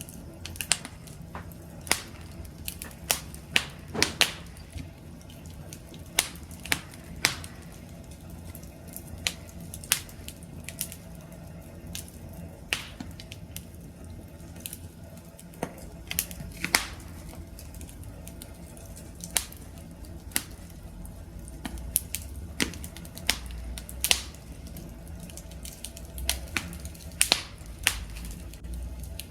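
Campfire crackling: irregular sharp pops and snaps, a few a second, over a low steady rumble of the burning.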